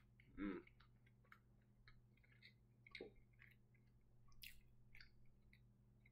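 Near silence: faint chewing and small mouth clicks and smacks from someone eating a cheeseburger, with a brief voiced hum about half a second in, over a low steady hum.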